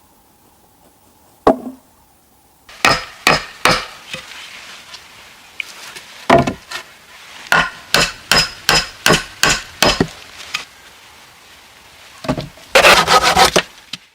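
A tool striking wood in sharp, separate blows: a few at first, then a quicker run of about two a second. Near the end comes a short burst of rough scraping.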